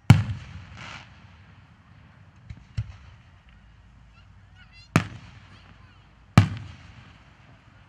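Aerial fireworks shells bursting: three loud booms, one just after the start, one about five seconds in and one about a second and a half later, each echoing away, with two smaller pops in between.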